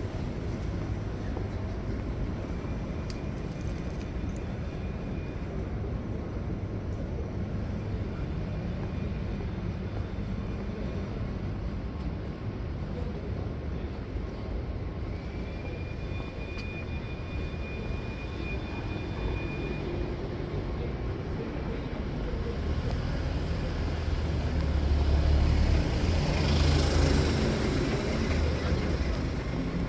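City street traffic: a steady rumble of vehicles, swelling as a louder vehicle passes close near the end.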